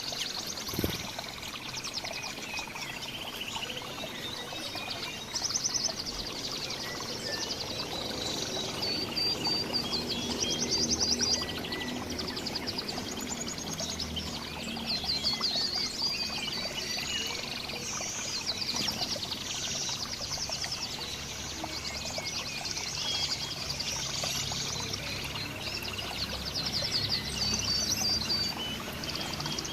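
Several songbirds chirping and trilling over one another in quick, overlapping calls, over a steady rushing background noise. A single brief knock about a second in.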